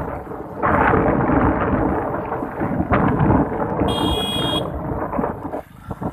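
Rolling thunder over rain: a rumble that swells and fades, with one brief high ringing tone about four seconds in.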